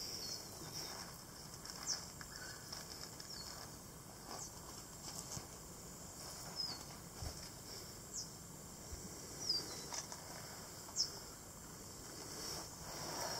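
Quiet background with faint, scattered bird chirps: short, high, falling notes every second or two, and a few soft clicks.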